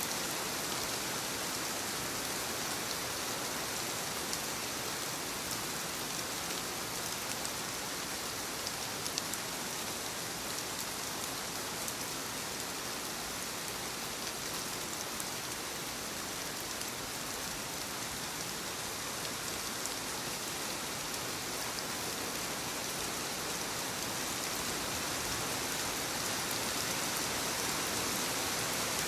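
Soft, steady rain falling on leaves: an even hiss with scattered small drop ticks.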